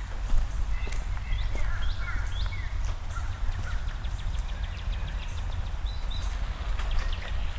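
Songbirds calling with short chirps that slide up and down, and a quick ticking trill in the middle, over a steady low rumble; sharp clicks, likely footsteps on wet pavement, are scattered through.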